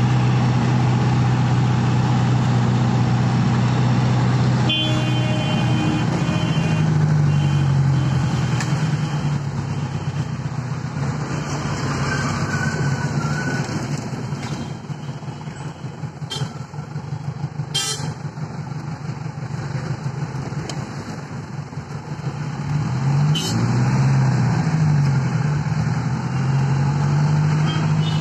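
Hindustan Ambassador taxi's engine running in city traffic, heard from inside the cabin, its low drone rising and falling in pitch with the throttle. Car horns honk now and then, and a couple of sharp clacks come a little past the middle.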